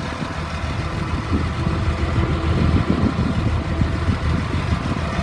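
Idling engine of a 2003 Blue Bird All American school bus, running steadily and smoothly.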